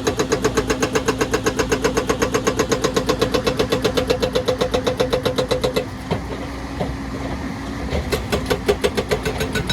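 Excavator at work: its engine hums steadily under a loud, rapid, regular pounding of about eight beats a second. The pounding stops about six seconds in and starts again about two seconds later.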